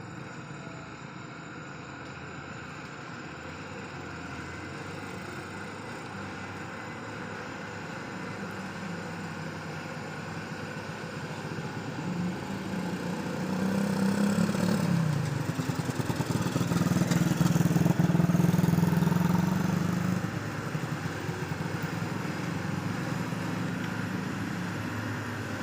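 A heavy diesel truck engine drawing near and passing. The engine grows steadily louder, dips in pitch briefly a little past the middle, is loudest soon after, then fades gradually.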